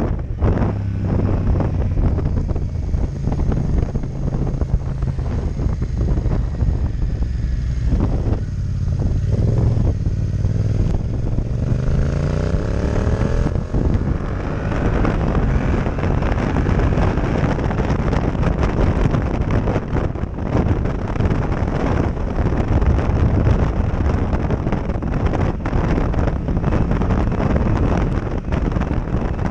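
Motorcycle parallel-twin engine running under heavy wind buffeting on a helmet-mounted camera mic; the engine note climbs as the bike accelerates about halfway through, after which the wind noise mostly covers it.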